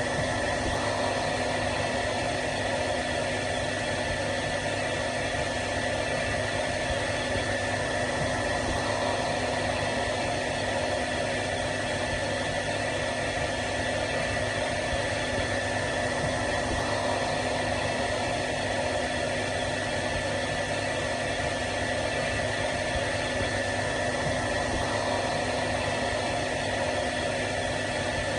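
Hair dryer running steadily: an even fan-and-motor hiss with a steady hum and a whine through it, unchanging throughout.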